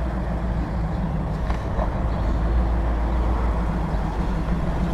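Vehicle engine running steadily, a low even rumble.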